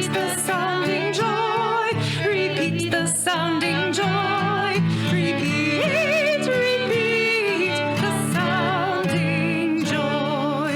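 Live worship band playing a congregational song, with a singer holding long notes with vibrato over steady accompaniment.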